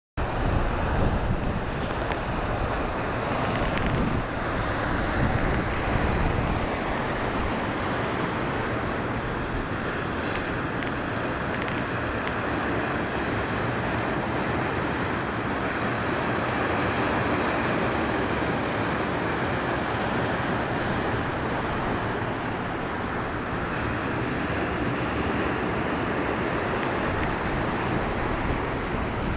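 Black Sea surf breaking and washing on the shore in a steady roar, with wind buffeting the microphone in low rumbles, strongest in the first several seconds.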